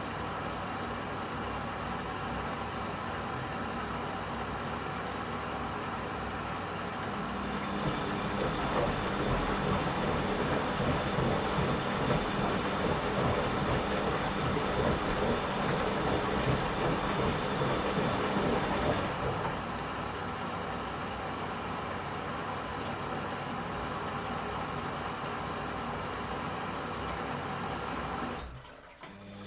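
Washing machine running mid-cycle: a steady motor hum with the drum turning. The churning grows louder about a quarter of the way in, eases back after about 19 s, and stops briefly near the end before starting again.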